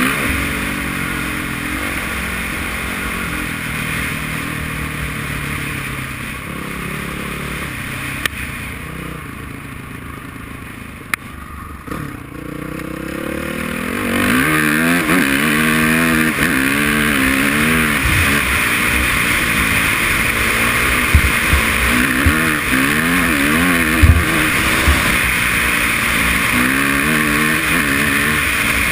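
Honda CRF450R dirt bike's single-cylinder four-stroke engine under way. It runs quieter and steadier through the first half, then grows louder from about halfway, its pitch climbing and dropping in repeated sweeps as it is revved. A few sharp knocks come in the louder part.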